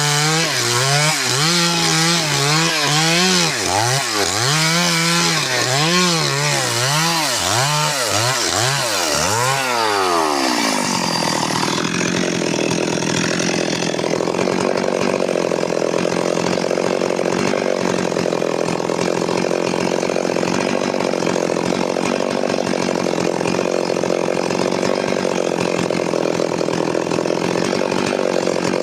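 Stihl MS 382 two-stroke chainsaw running, its engine pitch rising and falling about once a second for the first ten seconds, then dropping and settling into a steady lower pitch for the rest.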